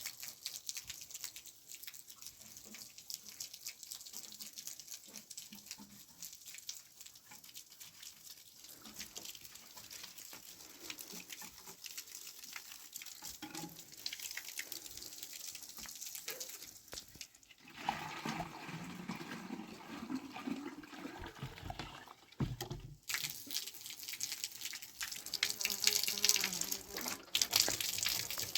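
Running water pouring and splashing, growing louder and brighter near the end.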